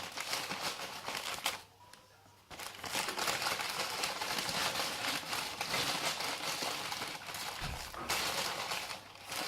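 Plastic sweet wrapper crinkling as it is handled and opened, with a short pause about a second and a half in.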